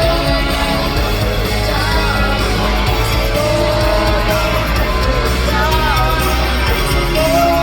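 Live rock band playing loud, with guitars, bass and drums, and held, sliding sung notes over the top, heard through the hall's PA on a phone in the audience. Crowd yells mix in.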